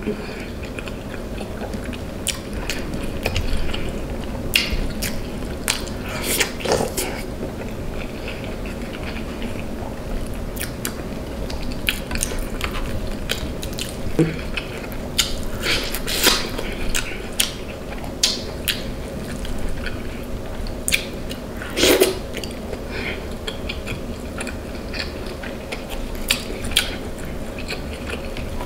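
Close-miked eating: a person chewing and biting into seafood boil food, with wet mouth sounds and scattered sharp smacks and clicks, over a faint steady hum.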